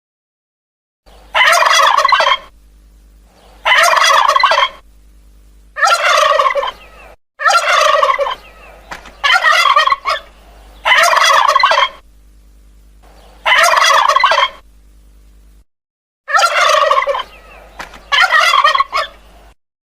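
Male turkey gobbling repeatedly: about nine rattling gobbles of roughly a second each, with short pauses between them.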